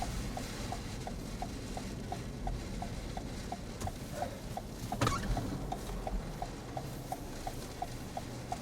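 A car's turn-signal flasher ticking evenly, about three clicks a second, over a steady low rumble, with one sharp knock about five seconds in.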